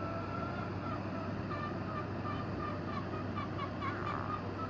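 A bird calling: one longer note, then a run of short repeated notes at about three a second, over a steady low background hum.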